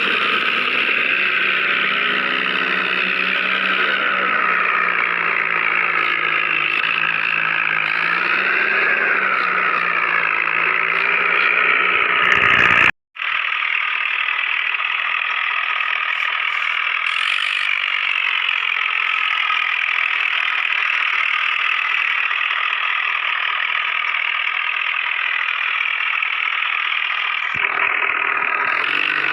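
Mini tractor's motor running steadily. The sound cuts out abruptly for an instant about 13 seconds in and comes back with less low rumble, which returns near the end.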